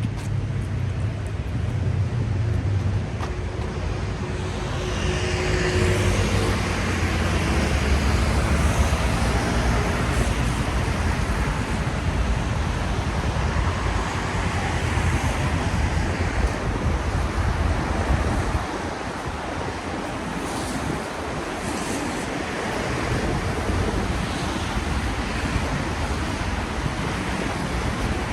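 Street traffic on a rain-wet road: tyres hissing on the wet surface over a low engine rumble that builds over the first several seconds and eases off about two-thirds of the way through.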